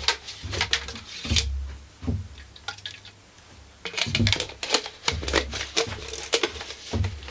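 Chainsaw engine parts being scrubbed and handled during cleaning: a run of quick scrapes and knocks, with a short lull before the middle.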